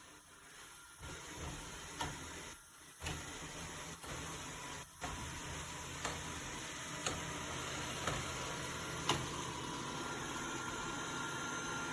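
Dreame D20 Pro Plus robot vacuum's motor starting up about a second in and running steadily with a low hum, with a short click about once a second.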